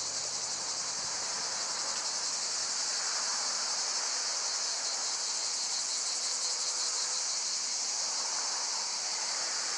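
Steady, high-pitched chorus of cicadas shrilling in the summer heat, with an even, fast pulsing texture and no pauses.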